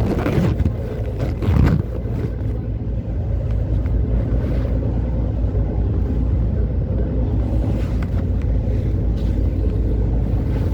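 A boat's engine running with a steady low drone, with wind gusting over the microphone in the first two seconds.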